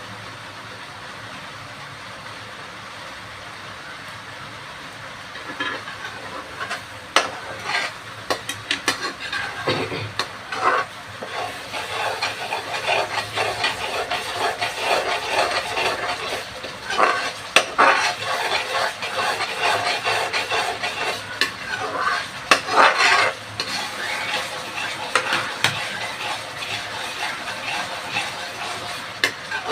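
A spoon stirring and scraping in a cooking pot, with irregular clinks and scrapes starting about five seconds in, over a steady hiss.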